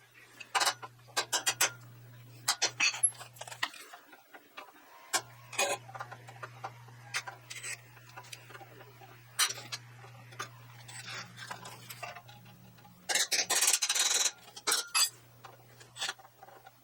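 Irregular metal clicks, taps and clanks of steel parts and tools being handled, with a denser burst of noise lasting about a second near the end and a faint low hum underneath.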